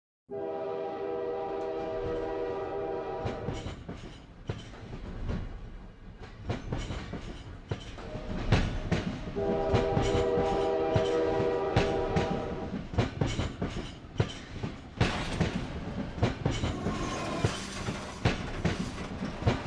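A train horn sounds twice, each blast about three seconds long, the second about ten seconds in. Underneath runs the clatter of train wheels over the rail joints.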